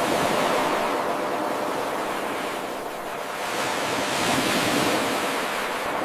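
Ocean waves washing on a shore: a steady hiss of surf that eases off a few seconds in, then swells up as a wave breaks past the middle and falls away near the end.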